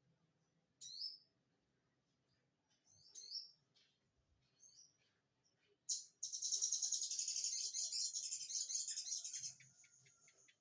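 A sogon (crimson sunbird) singing a ciblek-like (bar-winged prinia) song: a few short, high, sliding chirps, then about six seconds in a loud, rapid, high trill lasting some three and a half seconds before it tails off.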